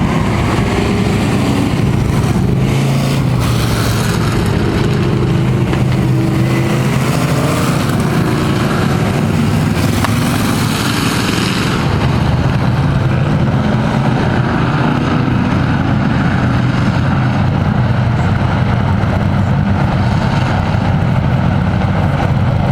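Race-truck engines running together as the field circles the track at low speed under caution, the engine note shifting up and down over the first few seconds.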